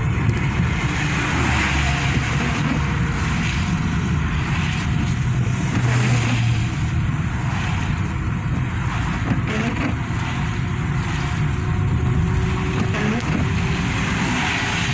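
Car driving on a wet road in rain: a steady engine and road rumble under an even hiss of tyres on water and falling rain.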